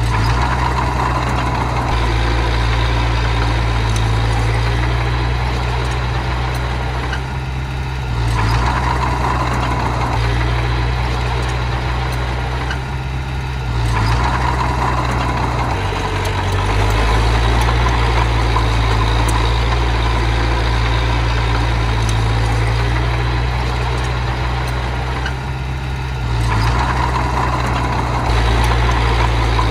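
A small bulldozer's diesel engine runs steadily under load, easing off briefly a few times and then picking up again as it works the soil.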